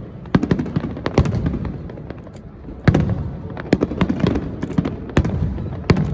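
Aerial fireworks bursting: a quick irregular series of sharp bangs and crackles over a continuous low rumble.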